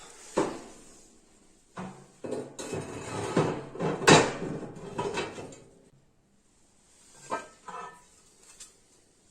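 Cast-iron stove plates clanking and scraping as they are fitted back into the stove: a sharp clank, then a run of knocks and scrapes in the middle, and a few lighter knocks near the end.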